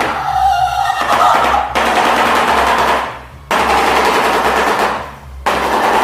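Shoebill clattering its bill: a rapid machine-gun-like rattle in three bouts, breaking off briefly at about 3 s and again at about 5 s. The clattering is part of the bird's courtship display.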